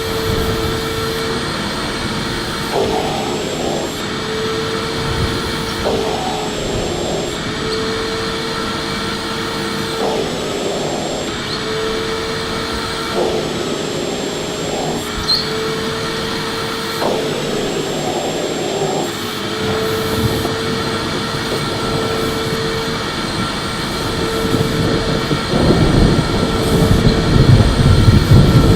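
Electric vacuum cleaner running steadily, its motor whine dipping briefly every three to four seconds. It gets louder and rougher near the end.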